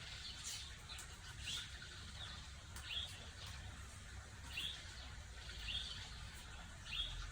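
A small bird chirping faintly, a series of short, high chirps about once a second.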